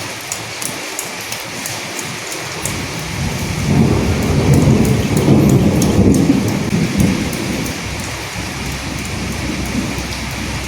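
Steady rain falling, with fine drop patter throughout. A low rumble of thunder builds about three seconds in, is loudest in the middle and fades away a few seconds later.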